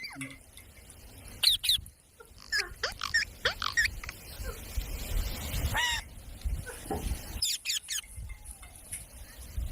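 A parrot giving a series of short, shrill squawks, several of them in quick pairs.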